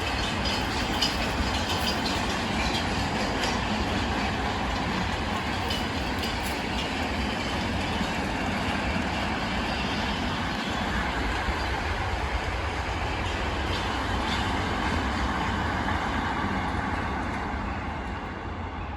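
Freight train rolling past close by: a steady low rumble of wagons on the track, with a few faint wheel clicks, easing off slightly near the end.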